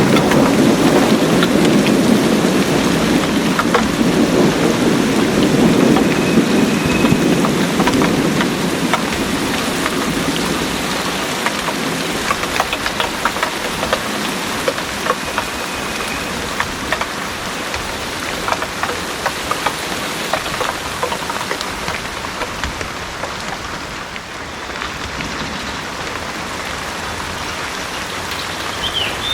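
Heavy rain falling steadily, drops pattering on surfaces, with a low roll of thunder at the start that fades away over the first ten seconds or so.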